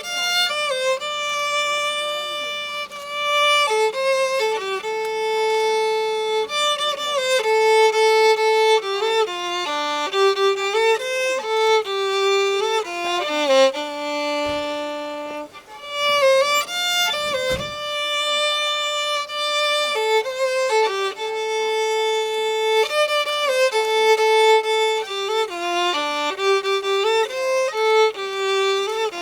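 Music: a single bowed string instrument playing a melody of held notes with slides between them.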